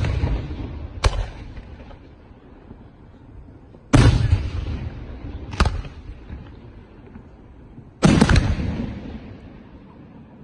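Aerial firework shells bursting about every four seconds, each heavy boom echoing away over a couple of seconds. A single sharper bang follows each boom about a second and a half later.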